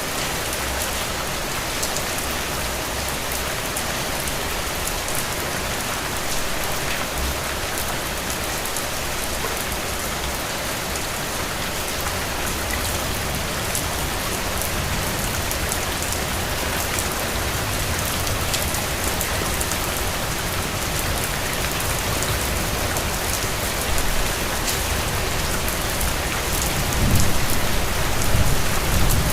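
Steady rain falling, an even hiss with scattered drop ticks, and a low rumble that swells near the end.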